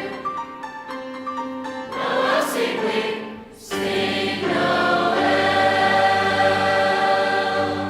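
High school choir singing, ending on a long held chord that is released just before the end.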